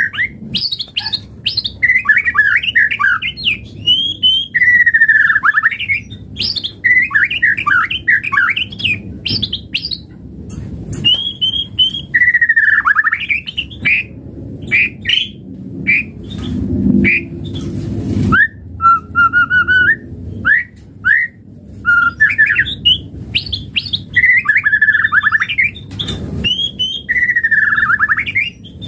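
White-rumped shama (murai batu) singing a long, varied song of whistled notes, fast chattering trills and sweeping phrases, coming in bursts a second or two long with short pauses between.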